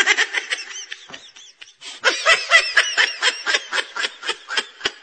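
A person laughing in rapid, evenly spaced bursts of 'ha-ha-ha', breaking off after about a second and starting up again about two seconds in.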